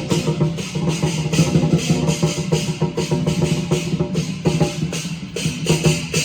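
Lion dance percussion: a drum beating a fast, steady rhythm with crashing cymbals over it.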